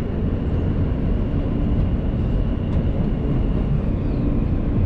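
Inside a New York City subway car on the F line: a steady low rumble of the train in motion, with a thin high whine that fades about three and a half seconds in.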